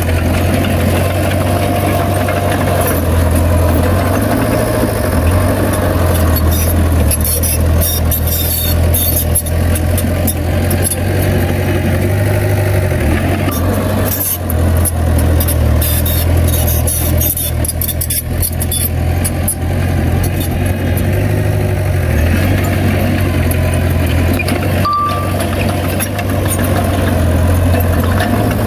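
Heavy earthmoving machinery with a diesel engine running steadily, with spells of metallic clatter and rattling through the middle. Two short high beeps come near the end.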